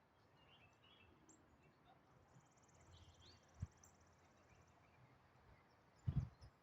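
Quiet outdoor ambience: a faint insect trill and a few short bird chirps over a low hiss, with a dull low thump about three and a half seconds in and another pair near the end.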